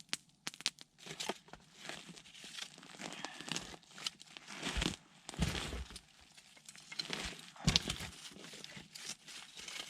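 Clothing and sleeping-bag fabric rustling and crinkling as it is handled, with scattered small clicks.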